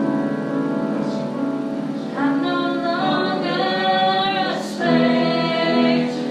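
Worship music with singing voices over instrumental accompaniment, the melody moving in long held notes.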